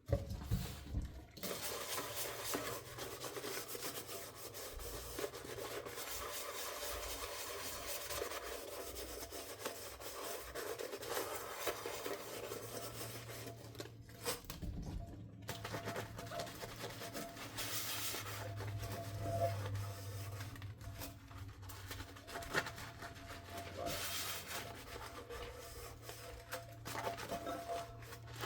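Dishes being scrubbed by hand with a sponge: a steady rubbing with a short pause about halfway through.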